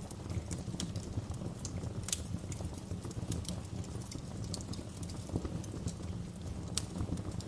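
Wood fire crackling: irregular sharp pops and snaps over a steady low rumble of burning, with louder pops about two seconds in and near the end.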